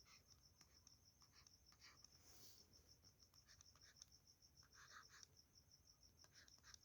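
Very faint scratching of writing in short, irregular strokes, over a faint high-pitched pulsing that repeats several times a second.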